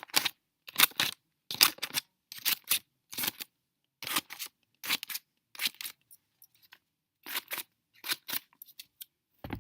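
A series of short, crisp rasping strokes, about one every second and sometimes in quick pairs, with a fainter stretch about six seconds in.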